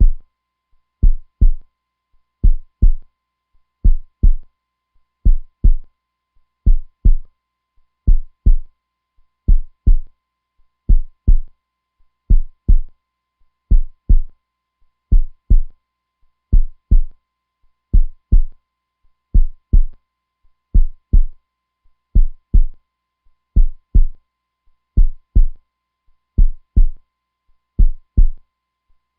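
Heartbeat recording: a steady, slow lub-dub, each beat a pair of deep thumps, repeating about once every second and a half.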